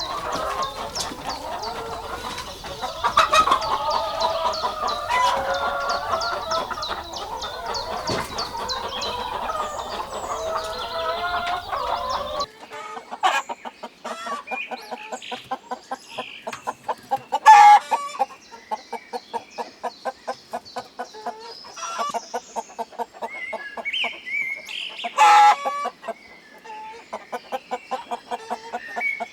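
A flock of chickens clucking and calling densely. About twelve seconds in the sound changes abruptly to sparser, rapid clucking, with two short, loud calls later on.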